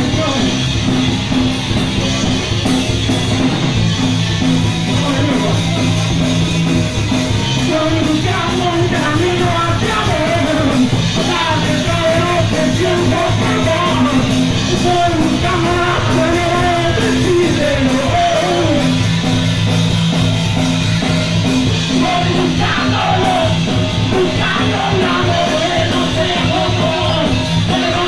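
Punk rock band playing live: electric guitar, bass and drums, with a singer's voice over the music.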